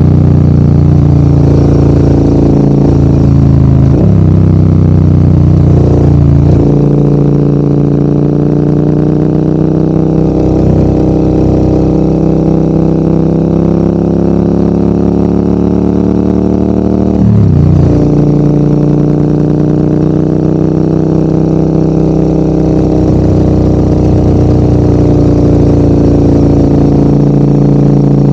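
Motorcycle engine running under load on an uphill ride, its note drifting slowly up and down. The pitch drops and picks up again sharply about four, six and seventeen seconds in.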